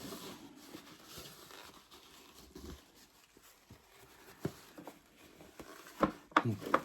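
Paper tissue rubbing as it wipes out the inside of a tarantula enclosure, with a few sharp knocks of the enclosure being handled, clustered near the end.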